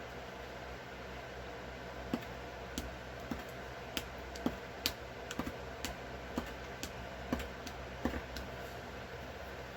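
Irregular small sharp clicks of a pointed tool punching stitching holes through cardstock along an embroidery pattern, about a dozen spread unevenly over several seconds, over a steady background hum.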